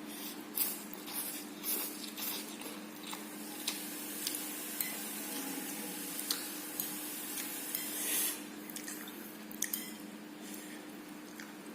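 Utensil clinking and scraping against a dish in short, irregular strokes while mixing fried instant noodles, over a steady low hum.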